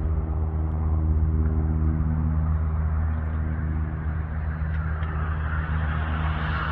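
Airliner jet engines, an Airbus A320neo at the airport, giving a steady low drone with a rushing noise that builds toward the end.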